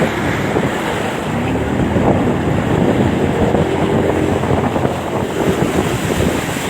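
Steady rush of floodwater and heavy wind buffeting on the microphone while riding a motorbike through a flooded street.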